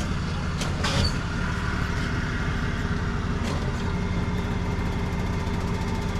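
Tow truck engine idling steadily, with a few sharp clicks, the loudest about a second in.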